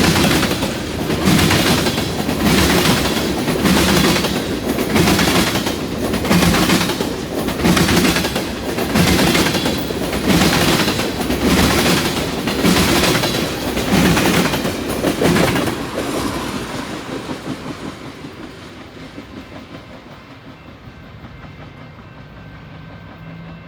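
Freight car wheels clattering over rail joints in a steady, even rhythm a bit more than once a second as a long freight train rolls past; after about 16 seconds the clatter fades away as the train moves off.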